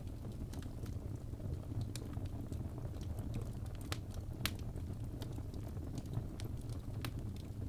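Wood fire crackling: a steady low rumble with irregular sharp pops and snaps scattered through it.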